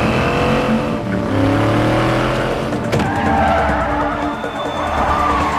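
Car engine revving hard during a chase, its pitch climbing again and again as it accelerates through the gears, with tyres skidding.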